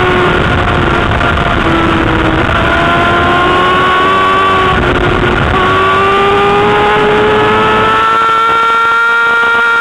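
Honda CBR600's inline-four engine running at high revs, heard from on board the bike with wind rushing over the microphone. The engine pitch dips twice, then climbs steadily through the last four seconds under acceleration.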